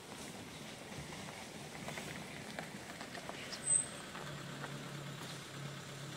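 A vehicle engine idling with a low steady hum under an even outdoor hiss. A brief high-pitched chirp comes about halfway through.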